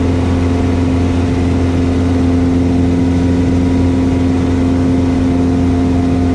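Cessna 172S's Lycoming IO-360 four-cylinder engine and propeller droning steadily in a climb, one constant pitch with no change in power.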